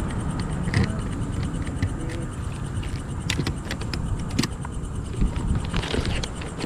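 Low steady vehicle rumble with scattered sharp clicks and knocks.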